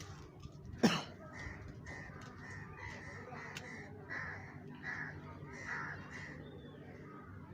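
A bird outside calling over and over, about ten short calls in a row. A single sharp knock about a second in is the loudest sound.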